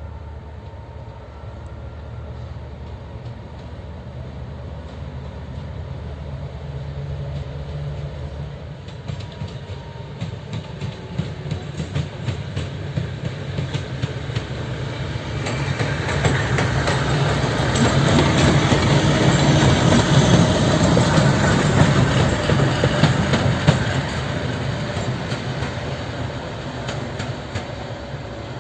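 TEP70 diesel-electric locomotive approaching and passing: a low engine drone grows louder, then the wheels click over the rail joints. It is loudest about two-thirds of the way through and fading near the end.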